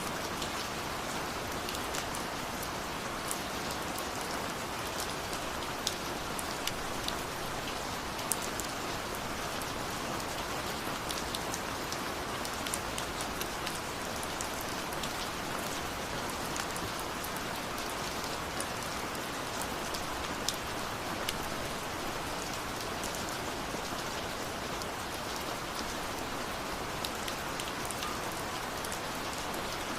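Steady rain falling, an even hiss with many separate drops ticking sharply on top.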